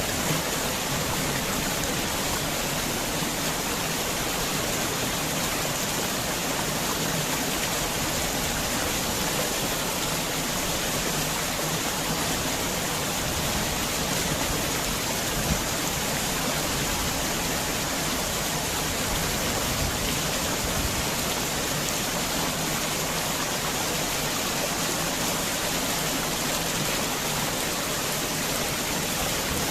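Heavy rain falling steadily on a garden house, a dense, even hiss with no let-up.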